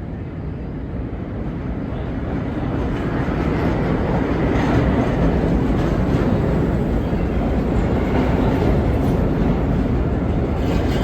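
A train of vintage R1/9 subway cars running on the track in the station, its rumble growing louder over the first few seconds as it comes closer, then holding steady.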